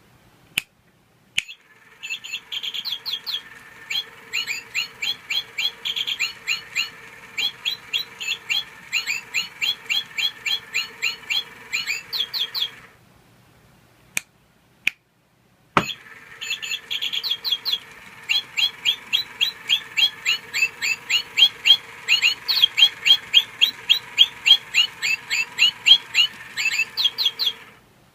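Toy singing bird playing rapid, evenly repeated electronic chirps, about three a second, in two runs of roughly ten seconds each over a steady buzz. A few sharp clicks come just before each run.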